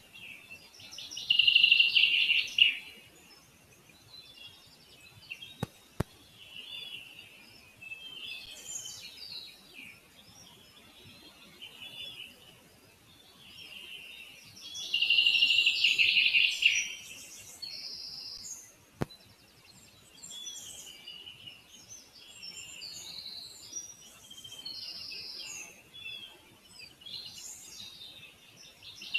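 Birds calling and singing in high-pitched phrases, with louder, denser bouts of calling about two seconds in and again around fifteen seconds in. A few faint clicks.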